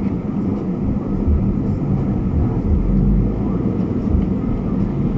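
Steady low rumble of a car driving: engine and road noise with no distinct events.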